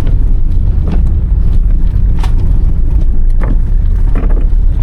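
Inside the cabin of a 1993 Toyota Corolla 2.0 diesel driving on a rough, muddy dirt road: a steady low rumble of engine and road, with several sharp knocks from the car going over holes.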